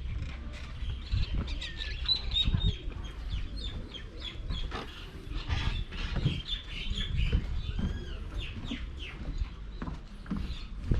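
Many birds chirping and calling in short, quick notes, over a low rumble.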